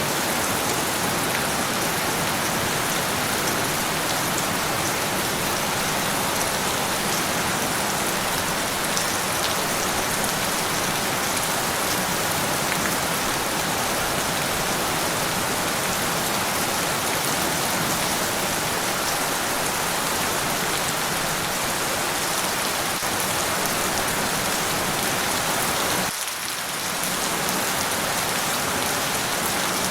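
Rain falling, a steady dense hiss, with a brief dip in level about 26 seconds in.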